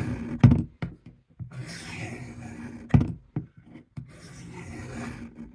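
Gerber 06 knife blade drawn along the stone of a Work Sharp guided sharpener in long scraping strokes, about three of them, each ending in a short knock.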